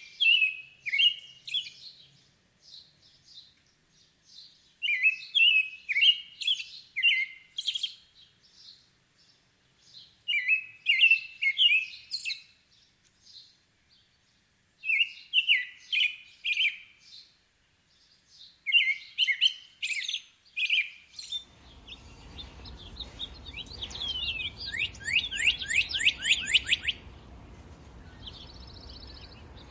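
Songbird singing a short phrase of quick, high chirping notes, repeated about every five seconds. About two-thirds of the way in, a steady low background noise comes in and a second bird gives a fast trill of rapidly falling notes, followed by a thin high note near the end.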